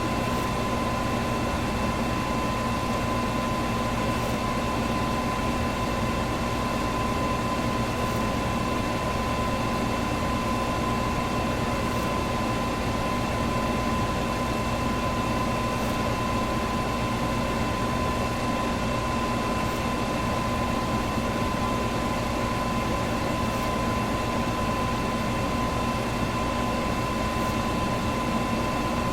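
Electric fan running steadily: an even rush of air over a constant motor hum with a faint high whine. A faint tick recurs about every four seconds.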